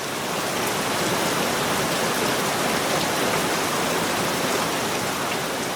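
Steady rain, a dense even hiss with no distinct drops, fading slightly near the end.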